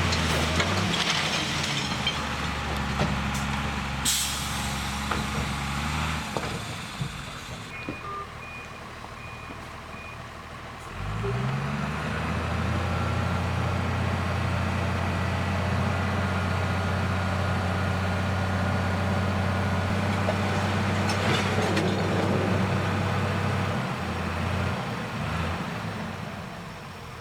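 Heavy diesel truck engine running, with a short air-brake hiss about four seconds in and a few reversing beeps around eight seconds. About eleven seconds in the engine revs up and holds a steady, louder note, then drops back near the end.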